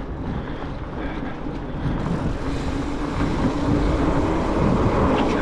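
Wind and road noise from a moving bicycle, with a motor vehicle's engine growing louder from about two seconds in as it draws near.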